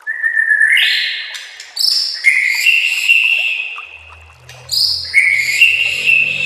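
White-rumped shama (murai batu) singing three loud, clear whistled phrases, each stepping or sliding upward in pitch.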